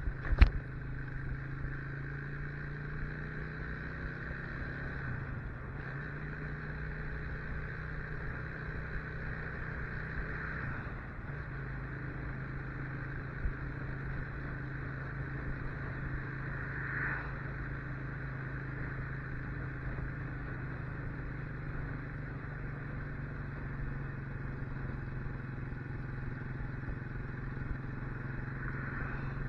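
Motorcycle engine running at a steady pitch while riding, with a sharp knock about half a second in.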